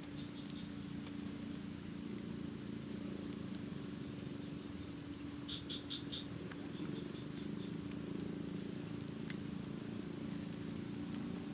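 Night-time chorus of insects, such as crickets: a steady high buzz pulsing about twice a second over a steady low drone, with a short run of quick chirps about five and a half seconds in.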